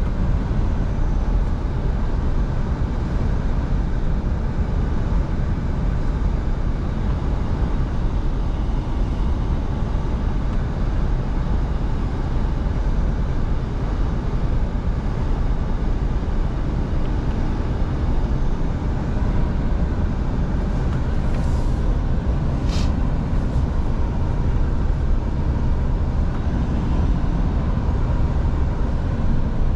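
Scania V8 truck driving at a steady speed: an even low engine and road rumble. A brief high hiss sounds twice about two-thirds of the way through.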